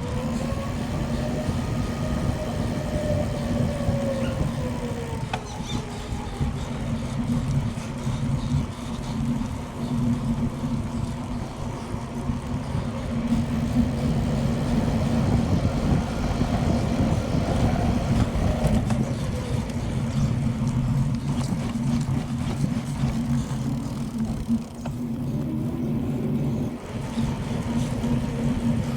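Bicycle riding on a paved road: wind rushing over the microphone and tyres rolling, with a steady low hum throughout.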